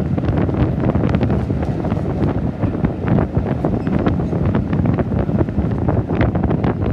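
Wind buffeting a microphone held out of a moving train's carriage window, over the steady rumble of the coach running along the track, with many small clicks and rattles.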